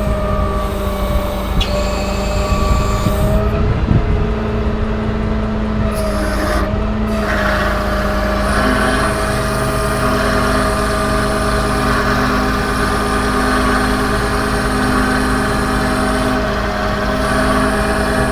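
Cummins diesel of a Ram 5500 bucket truck running steadily, driving the hydraulics that work the aerial boom, with a steady whine whose pitch dips briefly a few times as the boom controls are worked.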